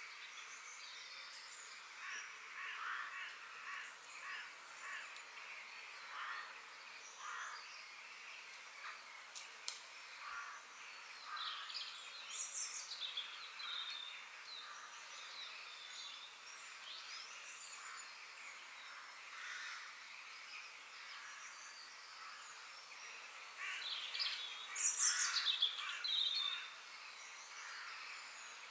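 Several wild birds calling and chirping over a faint outdoor background, with a louder flurry of high chirps near the end.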